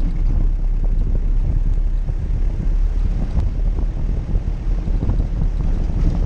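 Jeep Cherokee driving off-road: a steady low engine and drivetrain rumble, mixed with heavy wind buffeting on the microphone.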